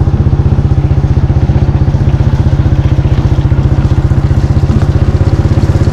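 Small engine running steadily close by, with a rapid, even putter that does not change in speed.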